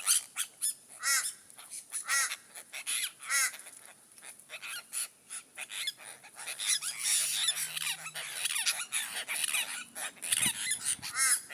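A flock of apostle birds calling close by: many short, harsh calls, some repeated in quick little series, busiest through the middle and again near the end.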